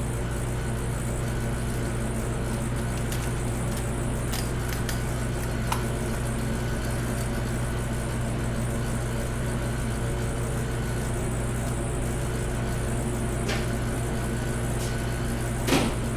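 Steady low mechanical hum of shop machinery. A few light clicks of metal parts being handled come through it, the loudest near the end.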